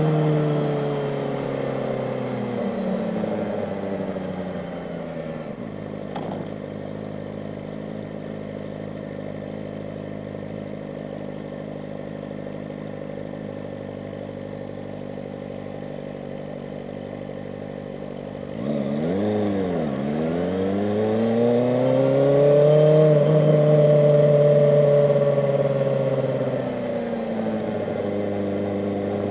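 Kawasaki ZX-4RR's inline-four engine slowing down to a steady idle. About two-thirds in, it picks up again and gets louder as the bike moves off: the pitch dips, climbs and holds, then eases down near the end.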